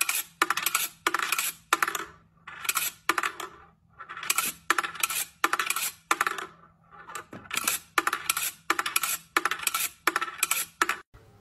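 Rapid series of bright metallic clinks and rattles, about two bursts a second, over a faint low hum.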